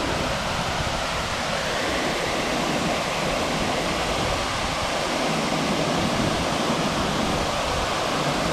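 Waterfall's water falling and rushing steadily, a continuous dense hiss of white water.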